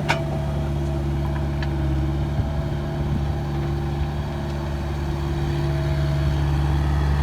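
Diesel engine of a heavy construction machine running steadily at one constant speed, with a brief click right at the start.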